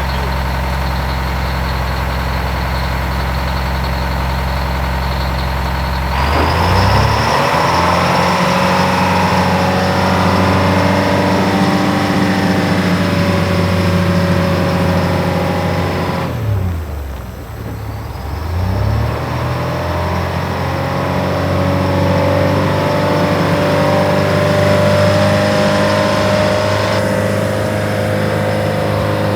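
Heavy diesel engine idling, then revving up about six seconds in and holding high revs. The revs drop briefly around the middle, then climb and hold again.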